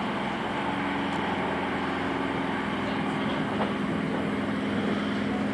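Running noise inside a moving electric passenger train: an even rumble of wheels on the rails with a steady low hum.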